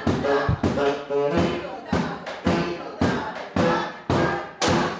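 Live band music with horns, played in short, punchy notes over thumping drum beats, about two a second. It ends on a loud final hit just before the end.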